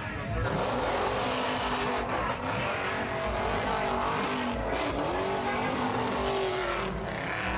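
A car's engine revving hard and rising and falling in pitch while its tyres squeal on the pavement. It starts about half a second in and cuts off near the end.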